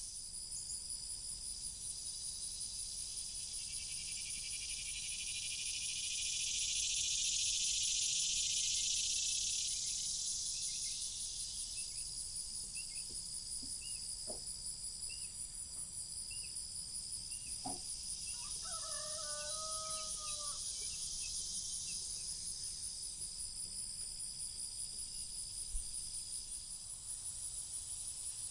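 Summer insect chorus: a steady, fast-pulsing high trill, with a louder buzzing swell that rises and fades in the first third. Later come a string of short chirps and a brief bird call about two-thirds of the way in.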